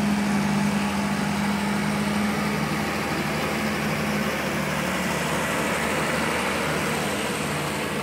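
Duramax V8 turbo-diesel pickup engine running steadily, a constant low drone over a dense rushing noise, the drone fading out about halfway through.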